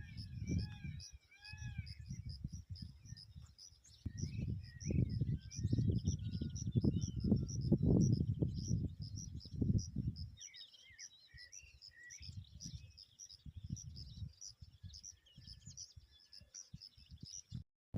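Birds singing in the open, with a steady, rapid high-pitched chirping throughout and a few repeated arched calls in the first second or so. Gusts of wind rumble on the microphone, strongest from about four to ten seconds in.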